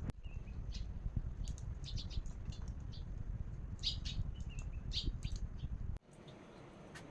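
Small birds chirping and twittering in many short calls over a low, steady rumble. About six seconds in, the sound cuts abruptly to a quieter background with only a few chirps.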